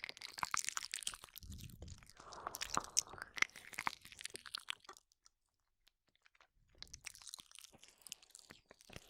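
Close-up ASMR mouth sounds: wet licking, smacking and clicking at the microphone, with a pause of about a second and a half in the middle.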